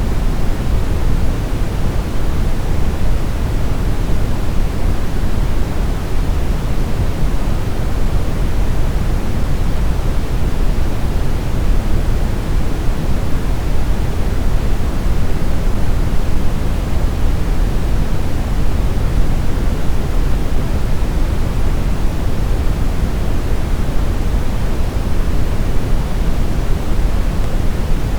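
Brown noise: a steady, even rumbling hiss, deep and strongest in the bass, with no tones or events and no change.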